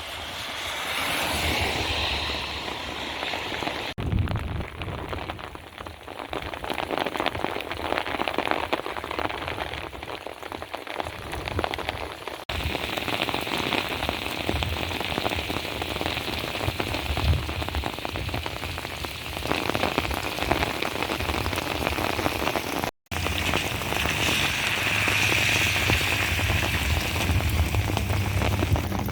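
Heavy rain falling and splashing on hard surfaces, a steady hiss of drops. The sound changes abruptly twice, and it cuts out for an instant about two-thirds of the way through.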